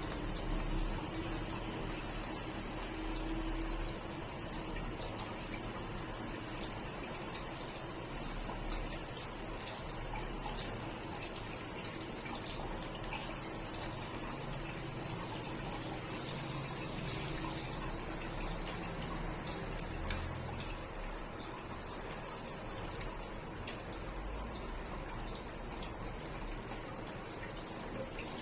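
Water running steadily, with a few small clicks and ticks here and there.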